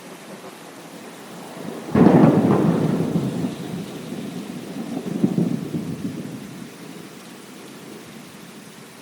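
Thunderclap from a thunderstorm over steady rain: a sudden loud crack about two seconds in that rolls on as a rumble, swells again briefly a few seconds later, and fades away under the rain.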